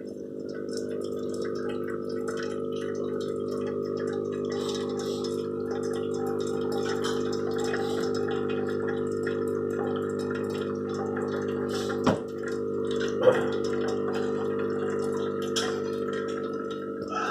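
Espresso machine pump running with a steady hum, with two short knocks about twelve and thirteen seconds in.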